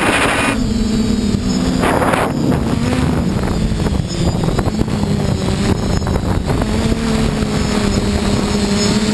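FPV quadcopter's motors and propellers whining in flight, the pitch wavering and shifting with throttle. Two bursts of loud rushing noise come near the start and about two seconds in.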